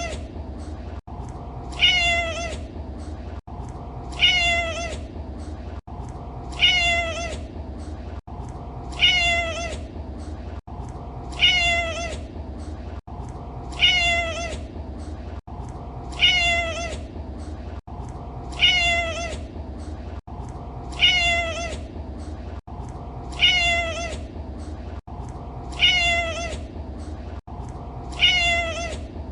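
Domestic cat meowing: the same meow looped over and over, one identical call about every two and a half seconds, with a short gap at each loop point. A steady low hum runs underneath.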